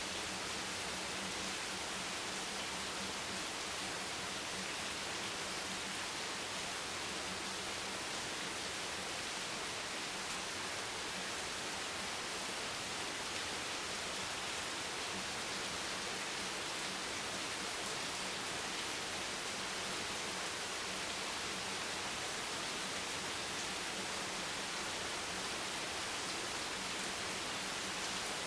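Steady rain as an even, unbroken hiss, with no single drops or other events standing out.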